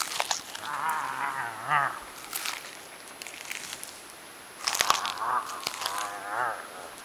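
A warbling, honking call in a low man's voice, given twice: a short one about a second in and a longer one from about five seconds in, with a couple of sharp clicks between. It is the mock mating call of the "bird".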